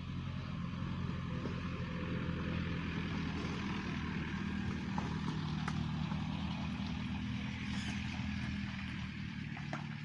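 A motor vehicle's engine running steadily, with a low, even hum that grows a little louder through the middle and then eases off near the end.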